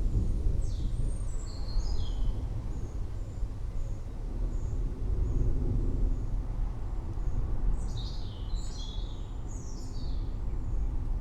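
Low rumble of thunder with birds calling over it: quick chirps falling in pitch, in a cluster near the start and again about eight seconds in, with faint short high notes repeating between.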